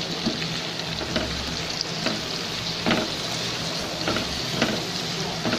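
Sliced onions and diced tomatoes sizzling in oil in a nonstick pan over raised heat, stirred with a spatula that knocks against the pan a few times.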